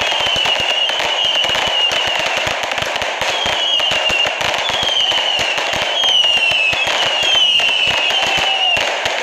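Consumer firework cakes firing nonstop: a dense run of crackling pops and bangs, with short whistles about once a second, each dropping slightly in pitch.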